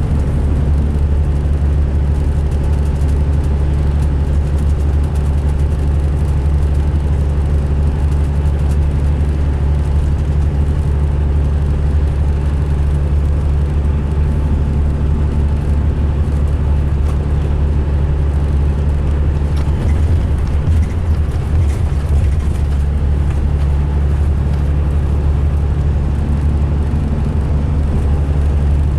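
The diesel engine of a 2005 MCI D4500 coach running with a steady, loud low drone, the note going briefly unsteady about twenty seconds in. The uploader finds this coach's engine rough-running.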